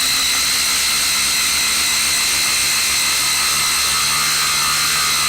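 Cordless brushless impact driver hammering without a break as it drives a 4-inch lag screw into wood: a dense, steady rattle with a high whine on top.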